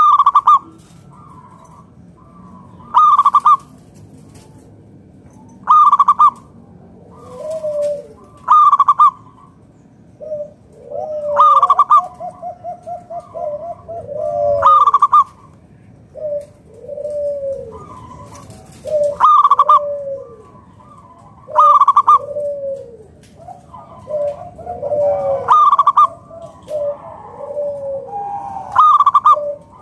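Zebra dove (perkutut) cooing. A loud, clipped call repeats about every three seconds, with softer, lower, arched coos in between and a quick run of notes about twelve seconds in.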